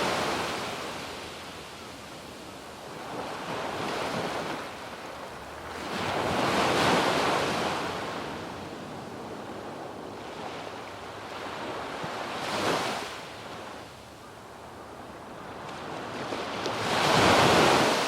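Waves breaking and washing up a sandy beach, the surf swelling and fading every few seconds with the biggest wash near the end, with some wind on the microphone.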